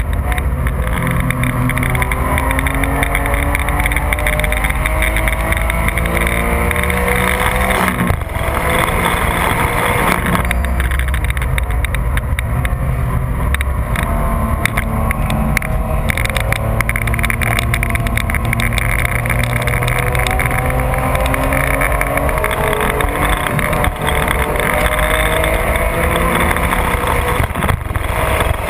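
2004 Porsche 996 GT3's flat-six engine under hard track driving, heard from inside the car, revving up through the gears again and again with road and wind noise. About eight seconds in the revs break off and fall away for a couple of seconds as the driver lifts and downshifts, then it pulls up through the gears once more.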